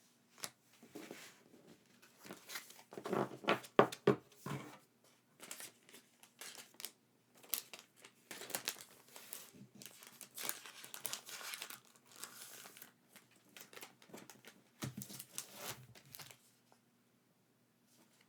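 Packaging being crinkled and torn open by hand: irregular rustling and crackling, loudest about three to four seconds in, stopping shortly before the end.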